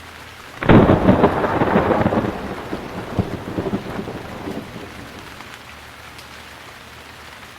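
Thunder: a sudden loud clap a little under a second in that rolls and dies away over several seconds, leaving a steady hiss of rain.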